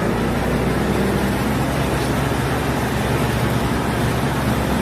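Diesel railcar's engine running steadily: a low, even drone under a wide rumble of noise.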